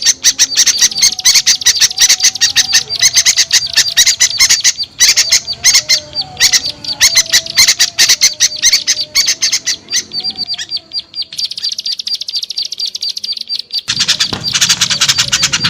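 Recorded lure calls of small songbirds: a dense, rapid, noisy chattering of many calls at once. About ten seconds in it gives way to a single fast, high buzzy trill, and the dense chatter comes back near the end.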